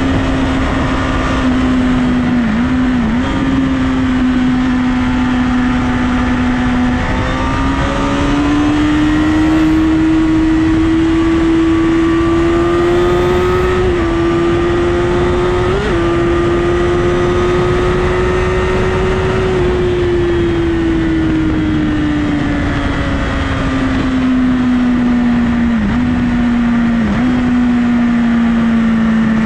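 Honda CBR1000RR inline-four engine running at steady highway speed over heavy wind rush. Its note rises about seven seconds in as the throttle opens, holds, then falls slowly from about twenty seconds in as the rider eases off. A few brief dips in pitch break the steady note.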